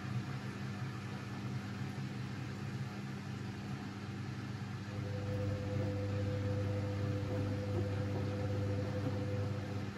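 Siemens Siwamat 6143 washing machine running during a boil wash: a steady motor hum that gets louder, with a higher steady tone joining in, about halfway through.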